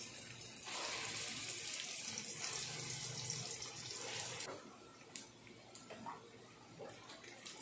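Risoles (breaded crepe rolls) sizzling in hot oil in a frying pan as they are put in: a steady hiss that drops away about halfway through, with a few light clicks of a spatula against the pan.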